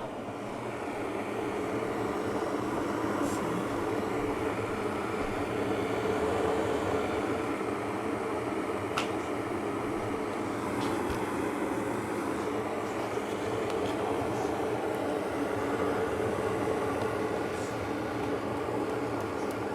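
Electric tea kettle heating water: a steady rushing rumble that swells in the first second and then holds.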